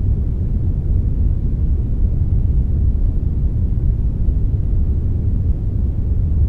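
Steady synthetic brown noise blended with a little white noise: a deep, even rumbling hiss, heaviest in the bass and thinning out toward the treble, with no change.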